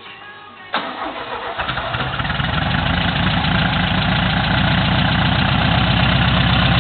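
VW Combi van engine starting about a second in, then picking up and settling into a steady idle.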